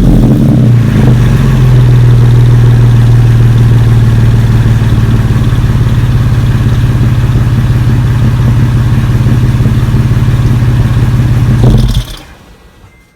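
Exhaust of a Toyota FJ Cruiser's 4.0 L V6 through an aFe Power aftermarket muffler, running steadily with a deep even note, then stopping about twelve seconds in.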